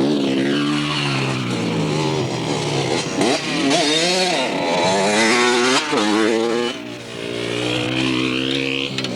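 Dirt bike engine running and revving as it rides, its pitch rising and falling several times in quick swings in the middle, then easing off briefly about seven seconds in before picking up again.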